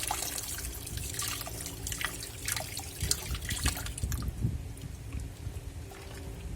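Water trickling and dripping into a Black&Decker washing machine's tub as it tops up its water level, with irregular small splashes; the inflow is weak from low water pressure.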